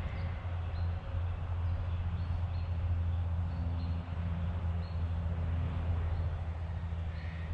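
Short, high bird chirps repeating every second or so over a steady low rumble.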